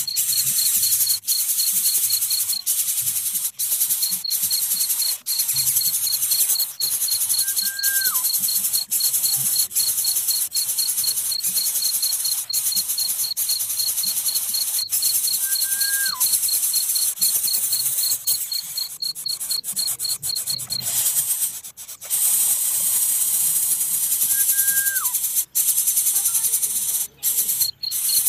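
Insects buzzing, with a cricket's steady pulsed chirping at about three to four pulses a second. A bird gives a short whistled note that drops at the end, three times about eight to nine seconds apart.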